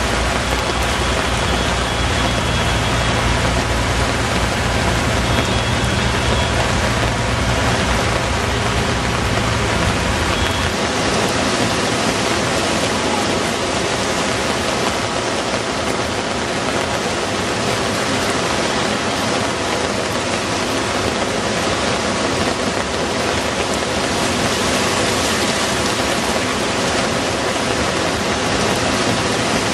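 Heavy rain falling steadily, a dense even hiss. A low hum underneath stops suddenly about ten seconds in.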